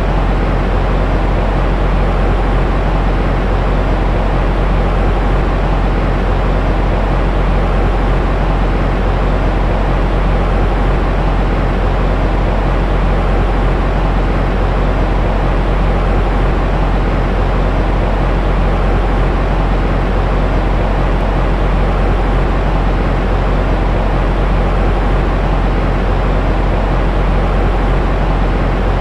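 Continuous baby-sleep white noise: a steady, deep, rumbling hiss, heaviest in the bass with little high treble, unchanging throughout.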